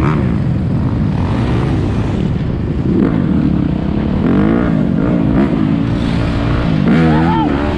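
Several dirt bike engines revving up and down again and again, overlapping one another over a steady rumble of traffic, with one engine revving high near the end.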